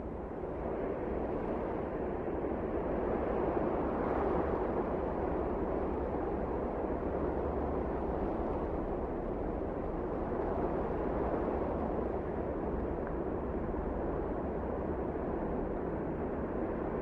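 Wind blowing, a steady rushing noise that swells slightly a few seconds in.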